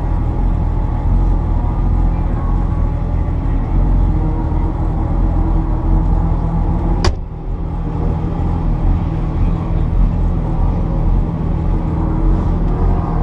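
1979 Porsche 930 Turbo's air-cooled, turbocharged 3.3-litre flat-six running hard under way on track. About seven seconds in there is a sharp click, and the engine sound dips briefly before picking up again.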